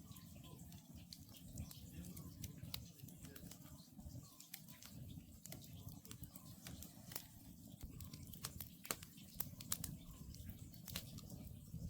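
Wood campfire crackling, with frequent sharp irregular pops over a low steady rumble.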